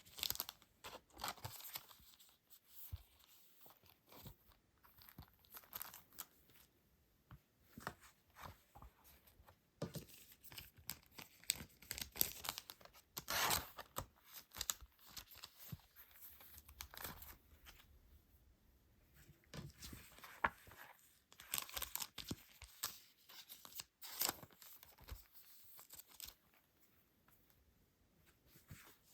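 Hands handling paper and plastic packaging: irregular crinkling, rustling and tearing sounds with small taps, coming in uneven bursts.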